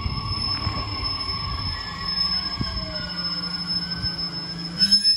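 JR Kyushu 817 series electric train pulling away from the platform. It makes a steady high whine over a low rumble of wheels on the rails, with a tone that slowly falls in pitch midway and a louder clatter just before the end.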